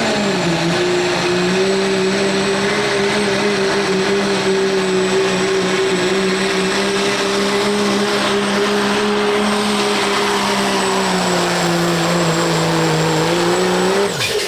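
Turbo diesel pickup truck pulling a sled at full throttle, its engine note held nearly steady with a thin high turbo whistle above it and sagging slightly late in the run. About fourteen seconds in, the engine suddenly lets off and drops away.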